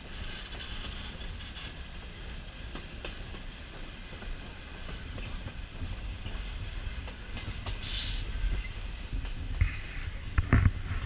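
Passenger railcar rolling along the track, heard at an open window: a steady rumble of wheels on rail with occasional clicks, and a few heavier knocks near the end.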